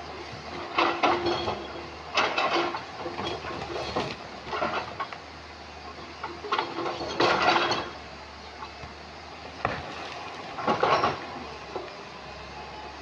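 Excavator engine running steadily, with irregular bursts of stones clattering and grinding against the steel bucket, the loudest about seven seconds in.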